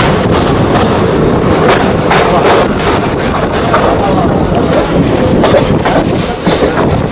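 Running noise of the Howrah–Vasco Amravathi Express heard from inside a coach: a steady dense rumble of wheels on track with irregular short knocks.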